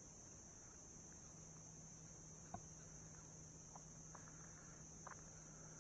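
Near silence, with a faint steady high-pitched insect trill throughout and a few faint short chirps scattered through it.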